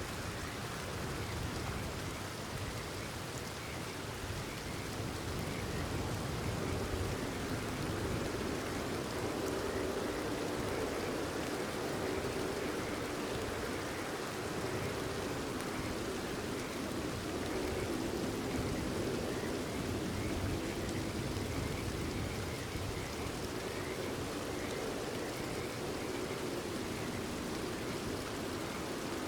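Steady rainfall pattering, with a chorus of frogs calling underneath.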